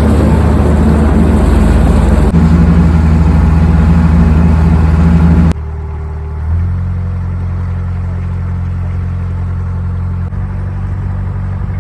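Narrowboat engine running steadily as the boat cruises. It is loud with a rushing hiss for the first five and a half seconds, then drops abruptly to a quieter, steady hum.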